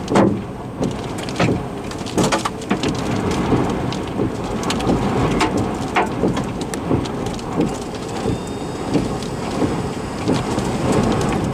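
Golf-ball-sized hail striking the car's roof and windshield, heard from inside the vehicle: a dense, continuous clatter of sharp impacts, with a few heavier hits standing out.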